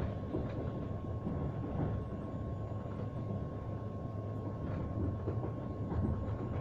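Moving train running on its rails: a steady low rumble with a few faint knocks and a thin steady whine.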